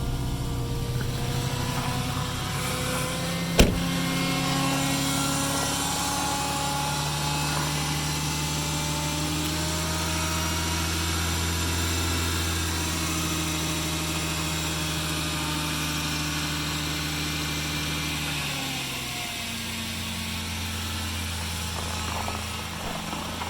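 2003 Ford Ranger pickup's engine idling just after a cold start at 19 below zero, running smoothly. Its pitch steps down about 18 seconds in as the idle settles. There is one sharp knock about three and a half seconds in.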